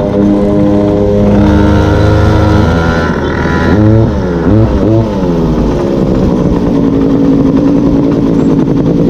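Small two-stroke engine of a gas-powered stand-up scooter running under way at a steady pitch, its revs dipping and rising about three times in the middle as the throttle is worked.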